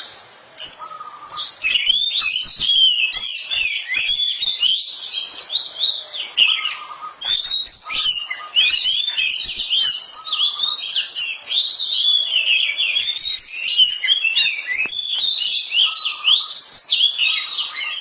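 A pair of oriental magpie-robins singing against each other in a fast, unbroken stream of varied whistled phrases. The song pauses briefly about a second in and again around seven seconds, then carries on until it cuts off suddenly at the end.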